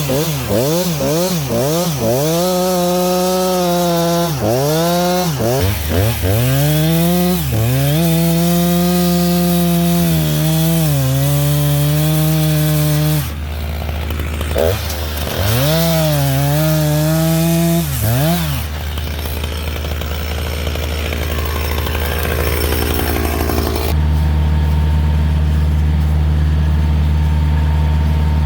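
Husqvarna chainsaw cutting downed trees, its pitch dipping under load in the wood and rising again between cuts, over a diesel tractor idling. The saw stops about two-thirds of the way through, leaving the Kioti tractor's diesel engine idling steadily.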